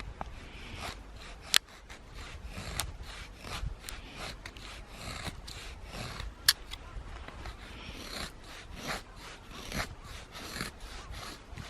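A blade scraping along wood in repeated short, irregular strokes, with two sharp clicks among them.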